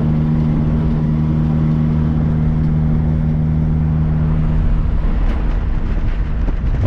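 1275cc MG Midget's A-series four-cylinder engine running at a steady cruise, with wind and road rumble in the open-top car. About four and a half seconds in, the steady engine note drops away, leaving the low rumble.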